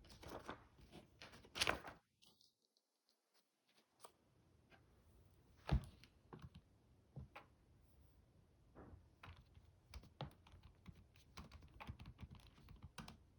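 Irregular soft clicks and taps, with one louder knock about six seconds in and a brief drop to silence about two seconds in.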